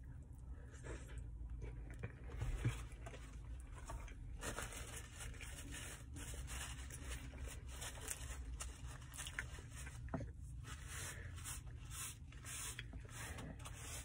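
Close-up chewing of a mouthful of steak burrito, with a bite into the burrito at the start and irregular wet chewing after it, over a steady low hum.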